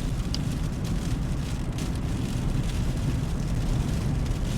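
Steady low rumble of road and wind noise heard inside a moving car's cabin, driving on a snow-covered highway in strong wind.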